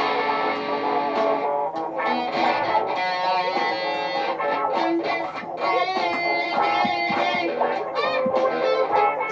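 Electric guitar played through effects over looped layers. A dense held chord thins about a second and a half in to picked single notes over a sustained drone.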